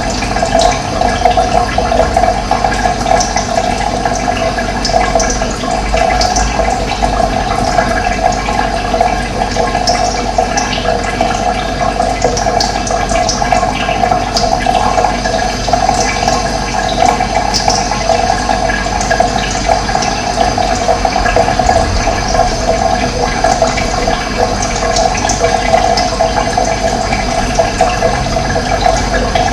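Running water flowing steadily, a dense, even rush, with occasional short, high bird chirps above it.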